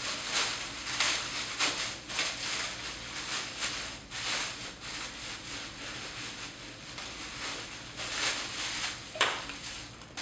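Packaging rustling and crinkling in irregular bursts as a light fixture is unwrapped and handled, with a sharp knock about nine seconds in.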